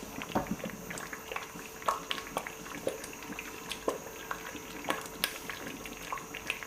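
Thick tomato puree bubbling in a pot as it is boiled down to paste, with irregular small pops and plops.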